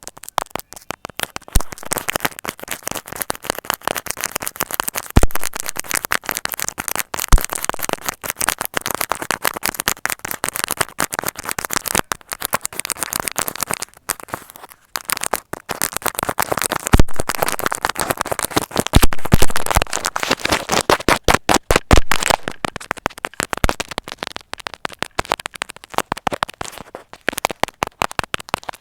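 Close-miked needle-work ASMR: rapid, irregular trains of crisp clicks and crackles as a needle is pushed again and again into a material, with short pauses between the bursts.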